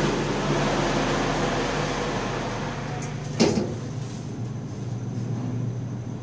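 Sigma elevator running with a steady mechanical hum that slowly fades, and a single sharp clunk about three and a half seconds in.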